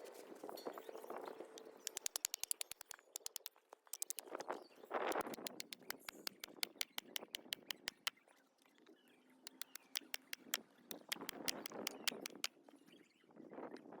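Wood campfire crackling, with runs of sharp pops and ticks and a few louder bursts of noise in between.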